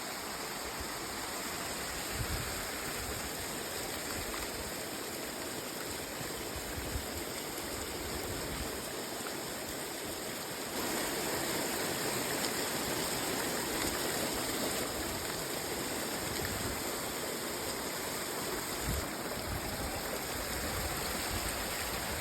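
Steady rush of ocean surf on a beach, a little louder from about halfway through, with a few short low bumps.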